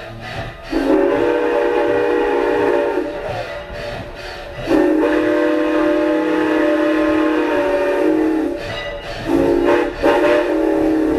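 Chime train whistle sounding two long blasts, a short one, and the start of another long one: the grade-crossing signal. The whistle sounds several notes at once over the rumble of the moving train.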